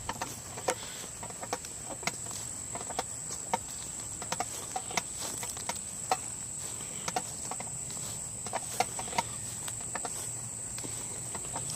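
Irregular footsteps crunching over fallen pine branches and debris, under a steady high-pitched insect drone.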